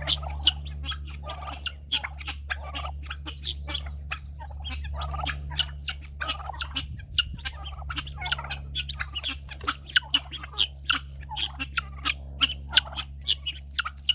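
Guinea fowl calling: many short, harsh cries in quick succession, several a second, over a steady low hum.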